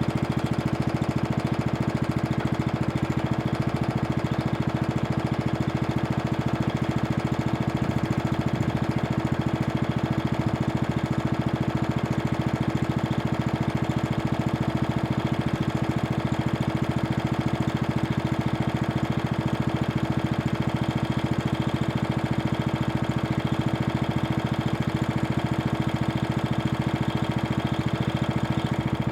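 Toro Super Recycler lawn mower's 6 hp Briggs & Stratton engine running steadily at constant speed, with an even, unchanging firing rhythm.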